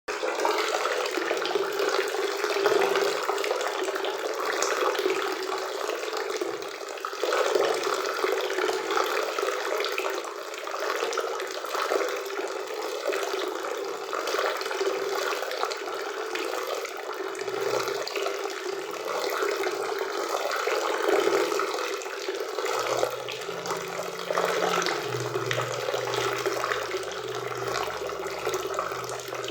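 Waterfall and river water rushing steadily, an even roar of splashing water with no break.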